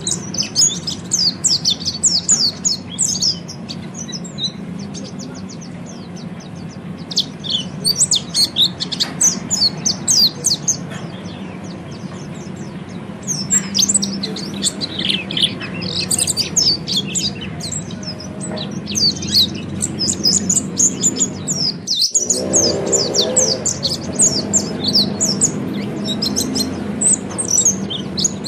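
Pleci (white-eye) singing a rapid, high-pitched twittering 'ngeriwik' song in bursts with short pauses, over a low steady hum.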